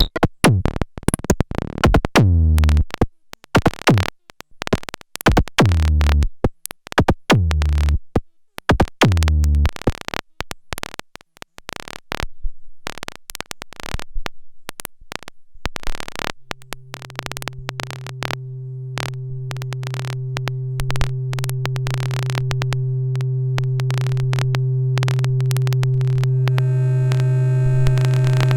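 Erica Synths Black System III modular synthesizer playing electronic patterns: dense clicking percussion with deep kick sweeps that fall in pitch, then, about halfway through, a steady low drone with higher held tones that swells slowly louder.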